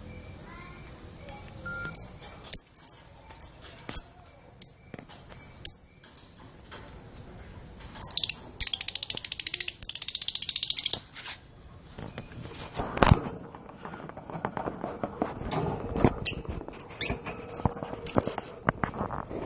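Canaries chirping: a run of short high chirps, a fast trill lasting about three seconds near the middle, then more chirps. Clattering knocks join in the second half, one loud knock among them.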